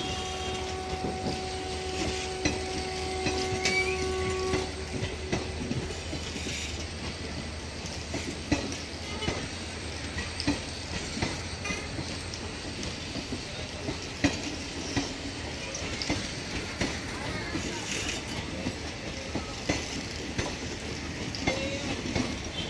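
Passing train: steady running rumble with wheels clattering and knocking over rail joints. A held train horn note sounds for the first five seconds or so, then stops.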